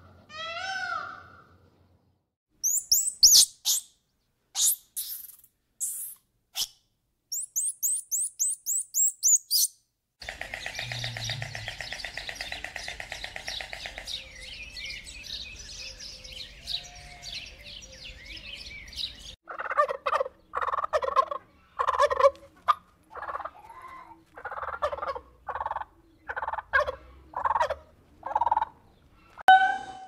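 A run of different bird calls: bursts of very high, rapid chirping over the first several seconds, then a steady buzzing for several seconds, then a string of short calls repeated about once a second.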